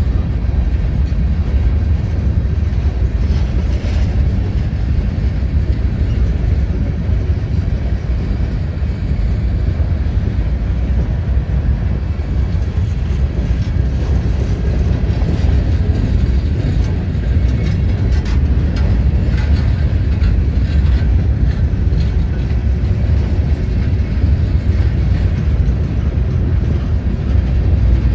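Freight train rolling past with a steady, loud low rumble.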